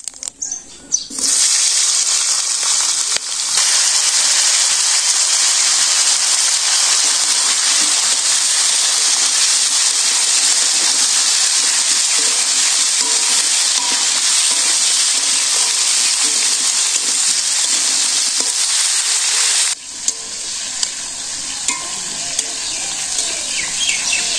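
Cauliflower and potato pieces frying in hot oil in a wok, a loud steady sizzle while they are stirred with a spatula. The sizzle starts suddenly about a second in and drops abruptly to a much quieter sizzle near the end.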